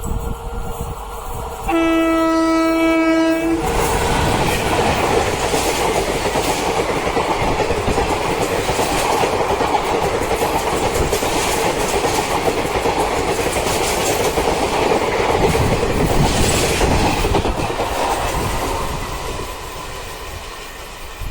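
An express train's locomotive horn sounds one steady blast of about two seconds, then the train rushes past with loud, steady wheel-on-rail noise that fades near the end.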